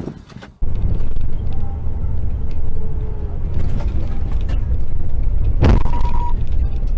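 Steady low rumble of a car on the road as heard by a dashcam, starting suddenly under a second in. A single sharp thump comes about five and a half seconds in.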